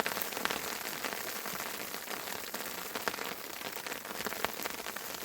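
Steady rain pattering on a surface, with many scattered small drop taps.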